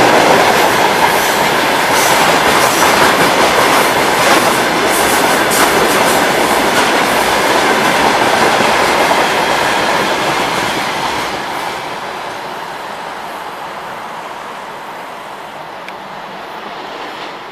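Tank wagons of a freight train rolling past on the rails, a loud steady rolling noise with occasional sharp clicks. The noise fades away from about two-thirds of the way in as the end of the train draws off.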